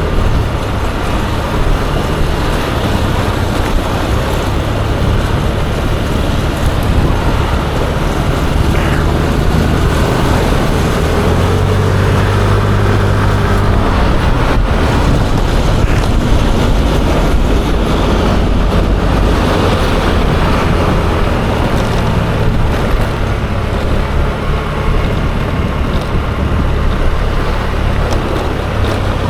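Yamaha Aerox 155 scooter on the move, its single-cylinder engine running with the note shifting up and down, under a steady rush of wind on the microphone.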